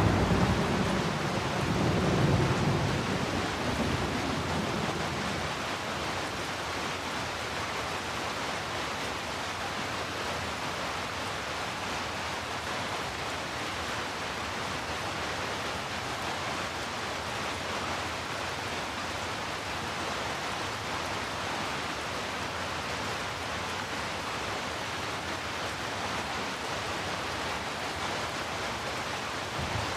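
Steady rain hiss. A roll of thunder fades away over the first few seconds.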